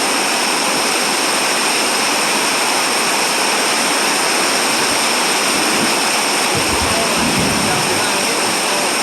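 Steady heavy rain, an even hiss with no let-up, with a brief low rumble about six to seven seconds in.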